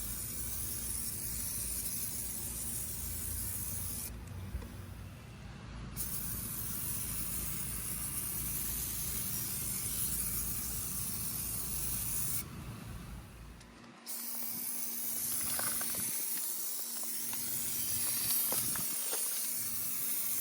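Spray hissing in three long stretches, stopping briefly about four seconds in and again about twelve seconds in, as a shine product is sprayed onto the cars.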